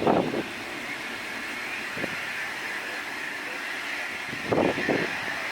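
Airbus A380's jet engines in reverse thrust during the landing roll on a wet runway, a steady distant roar with a hissing edge. Two brief louder bursts come at the start and about four and a half seconds in.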